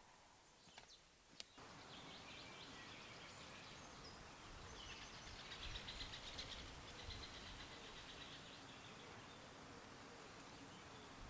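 Faint outdoor background with small songbirds chirping, including a fast trill near the middle. A few soft clicks come first, before the steady background hiss sets in about a second and a half in.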